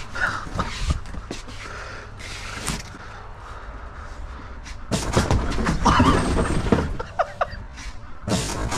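Small wheels of Heelys shoes rolling over hard pavement, a steady rumble with scattered clicks, getting louder about five seconds in.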